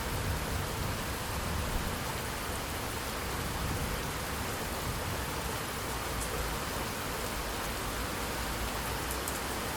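Steady rain falling, an even, dense patter with a low rumble underneath and a few separate drop ticks.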